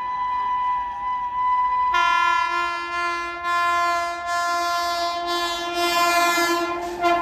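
Electric locomotive horn held as a long, loud chord while a train approaches at speed. It gets louder about two seconds in, and the pitch starts to drop right at the end as the locomotive passes.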